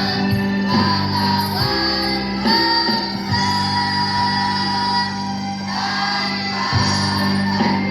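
Choir of girls singing a song in long held notes over musical accompaniment, with jingling tambourine-like percussion.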